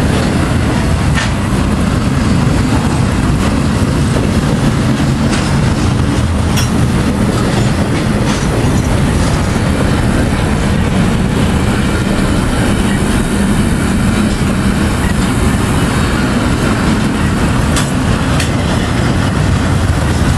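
Double-stack intermodal freight train's well cars rolling past: a steady, loud rumble of steel wheels on rail, with a few sharp clicks scattered through.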